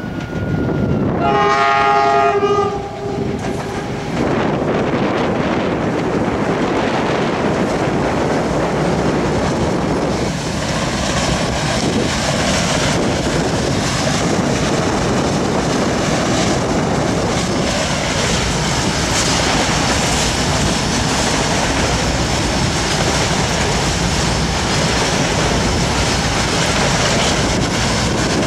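A freight train's electric locomotive sounds its horn about a second in, a chord held for roughly three seconds. Then comes the steady rumble and clacking of the locomotive and freight wagons running past at speed.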